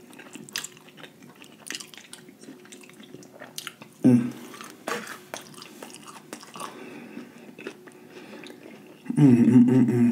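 A person chewing a mouthful of crunchy deep-fried, panko-breaded lobster tail close to the microphone, with many small crackling crunches and wet mouth sounds. A short hum comes about four seconds in and a louder one near the end.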